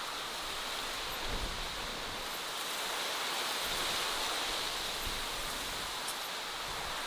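Steady rushing outdoor ambience of a forest lake: an even hiss with no distinct events.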